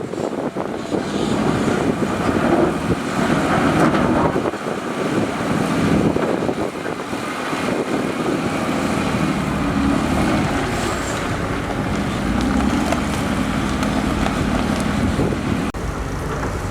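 Heavy earthmoving machinery running, its diesel engines giving a continuous rumble that rises and falls in level as the machines work.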